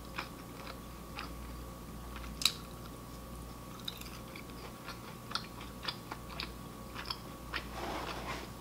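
Chewing a mouthful of crispy kara-age (Japanese fried chicken): short, irregular crunches and mouth clicks, one louder crunch about two and a half seconds in.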